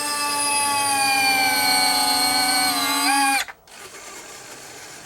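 Small electric motor of an RC airliner's retractable landing gear running through a retract cycle: a steady whine whose pitch sags slightly, then rises briefly just before it cuts off about three and a half seconds in as the gear reaches its stop.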